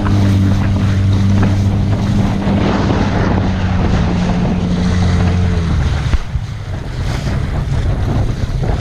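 Wind buffeting the microphone on a sailboat's deck, with water noise and a steady low drone that cuts off about six seconds in, followed by a single knock.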